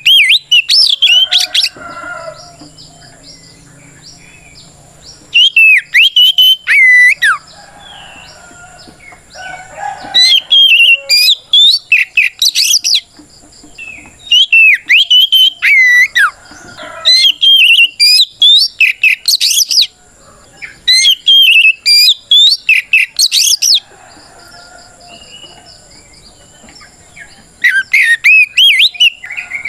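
Oriental magpie-robin singing loud phrases of rapid sweeping whistles, each lasting two to three seconds, with short pauses between them, about seven phrases in all. It is the bird's full-voiced challenging song, calling out a rival.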